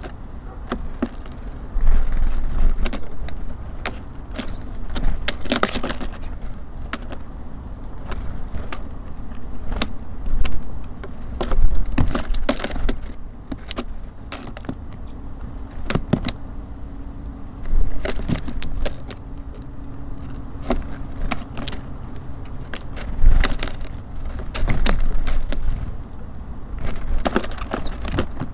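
Small birds at a bird feeder: irregular sharp pecking and tapping clicks, many in quick clusters, with a few short high chirps, over a steady low rumble of city traffic.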